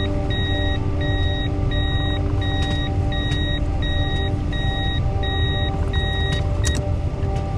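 Steady low vehicle rumble with a repeating electronic beep, each beep about half a second long with short gaps between. The beeping stops about seven seconds in.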